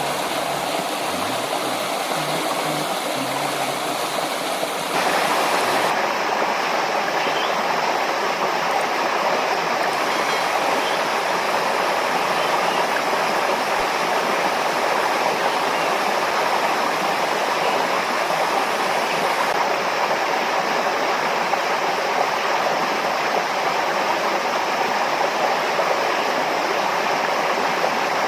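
River water rushing steadily, a continuous hiss of flowing water that steps up louder about five seconds in.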